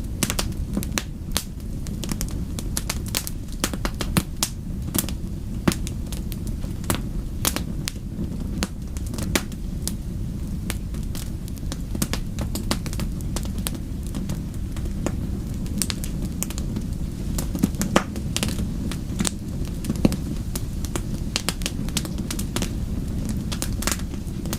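Wood fire burning with a steady low rumble and many sharp, irregular crackles and pops.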